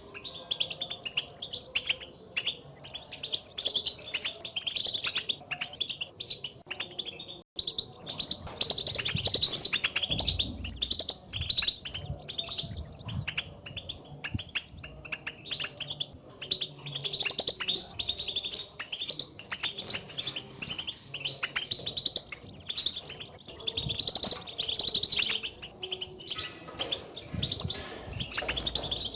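European goldfinches giving their rapid, twittering contact calls (the 'batbata' call), which keepers play to caged goldfinches to stir them into song. Dense high chirps follow one another almost without pause, with a brief lull about seven seconds in.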